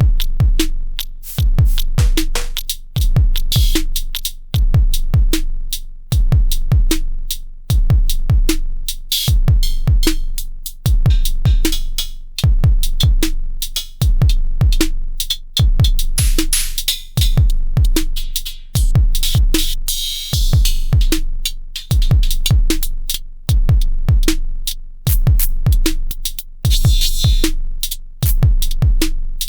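Elektron Syntakt drum machine playing a looping electronic drum pattern, repeating about every two seconds. Deep kicks fall in pitch, with clicky hits and short pitched blips over them, and hissy filtered-noise swells come in from time to time.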